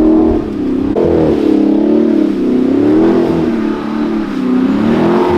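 A car engine revving up and down over and over as the car slides in the snow, its pitch rising and falling every second or two.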